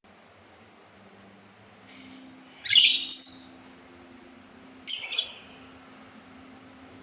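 A labet sultan songbird gives two short bursts of sharp, high chirping song, the first under a third of the way in and the second about two-thirds of the way in.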